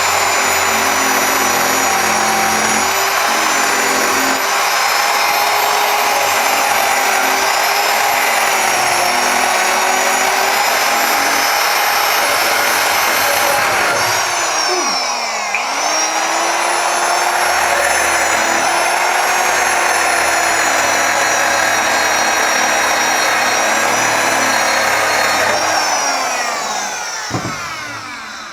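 Corded electric power tool running steadily, stripping rust off a steel tractor wrench. Its pitch drops and climbs back about halfway through, and near the end it winds down to a stop.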